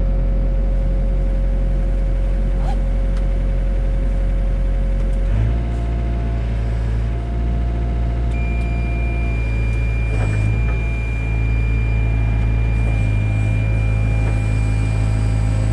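Takeuchi TB175 excavator's diesel engine running steadily under work, its note shifting about five seconds in. A thin steady high whine joins partway through.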